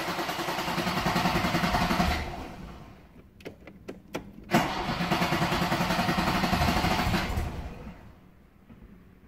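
Race car V8 engine firing up at once and running for about two seconds before falling away. A few sharp pops follow, then it catches again with a crack about four and a half seconds in and runs for about three seconds before fading out.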